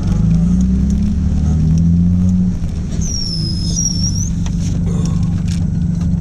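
Audi S4's twin-turbo V6 heard from inside the cabin at low speed, pulling for the first couple of seconds and then easing off about two and a half seconds in. A brief high whistle sounds about three to four seconds in.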